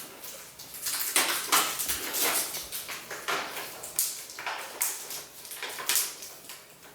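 Irregular rustling and crinkling handling noises, a quick run of short crackles and clicks.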